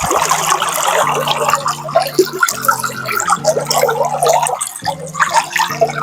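Water running and splashing, close and loud, over background music's held low chords.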